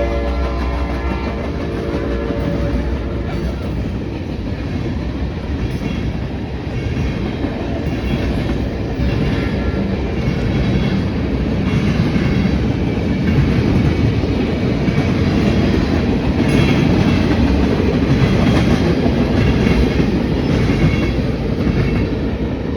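A passing train: its horn sounds for the first few seconds and cuts off, then the railroad cars roll by with a steady rumble and clickety-clack of the wheels over the rails.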